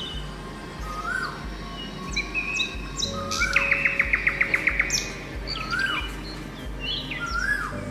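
Several songbirds chirping and calling in short rising and falling notes, with a fast even run of about ten notes a little past the middle. Background music with a low, slow pulsing beat plays underneath.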